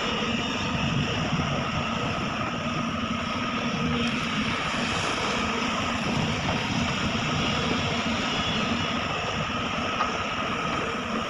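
Sumitomo SH350 hydraulic excavator's diesel engine running steadily, a continuous engine drone with a faint steady whine over it.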